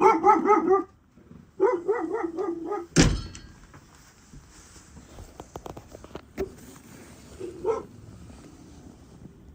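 Dog giving two runs of quick, high, repeated barks in the first three seconds, then a sharp thump about three seconds in, followed by light clicks and one more short bark near the end.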